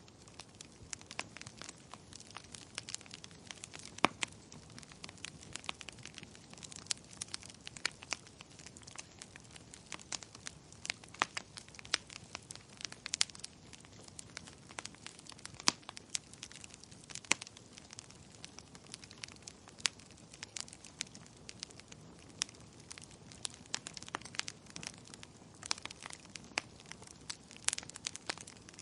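Wood fire crackling in a fireplace: a steady hiss with dense, irregular small pops and snaps, and a sharper pop about four seconds in.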